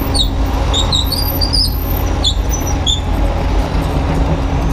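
Kubota U35-3 mini excavator's diesel engine running steadily, with a series of short, high squeaks in the first three seconds.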